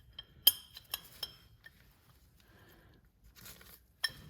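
Small metal turbocharger parts clinking against each other and the housing as they are handled. There are several sharp, ringing taps in the first second and a half, a soft rustle later, and one more clink near the end.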